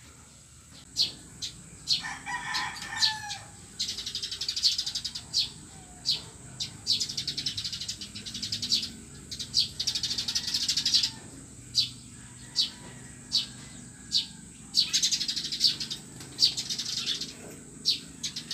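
Many birds chirping, in quick runs of sharp, high chirps with single louder chirps between them, and a lower call about two seconds in.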